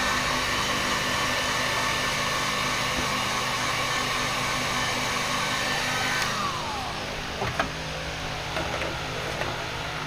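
A small electric blower motor runs steadily with a whine, then is switched off about six seconds in, its whine falling as it spins down. A few sharp clicks follow.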